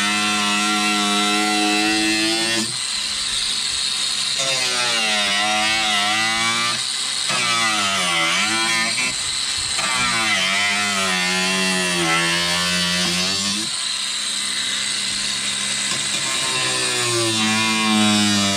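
Handheld power cutting tool running and cutting through the truck's body sheet metal, its motor pitch sagging as it bites and rising again as it frees up, several times over.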